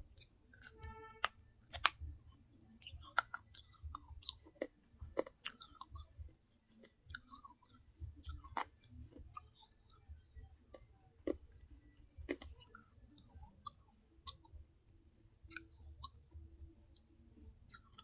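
Close-up chewing and crunching of baked clay pot pieces, with irregular crisp cracks and clicks between the bites.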